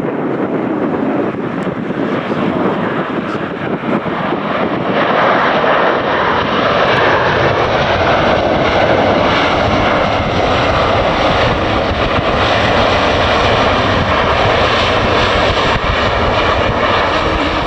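Jet airliner engines: a loud rush of engine noise that builds over the first six seconds or so, then holds steady, with a faint whine on top.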